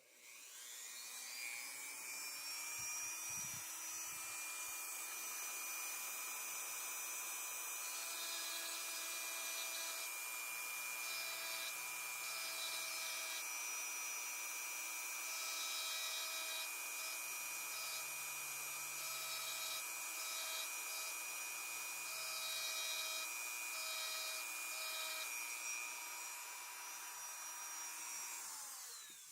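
Small high-speed rotary tool spinning up, running with a steady whine, and cutting in short irregular strokes as it engraves initials and a date into a pocket knife's inside liner; it winds down near the end.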